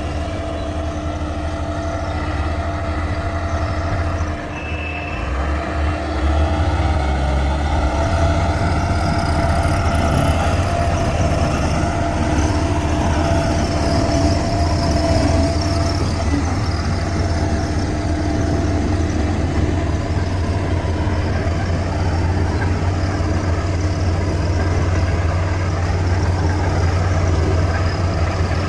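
Heavy machine engine, likely a bulldozer's diesel, running steadily with a steady whine over its low drone; it dips briefly and then gets louder about six seconds in.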